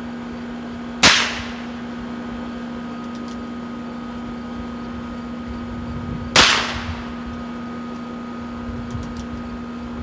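Two shots from a Heritage Rough Rider .22 rimfire single-action revolver, about a second in and again some five seconds later, each sharp crack trailing off briefly. A few faint clicks come between the shots.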